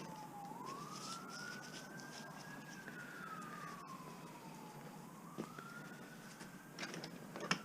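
Faint emergency-vehicle siren wailing, its single tone sliding slowly up and down about every four to five seconds, with a few light clicks of handled scrap near the end.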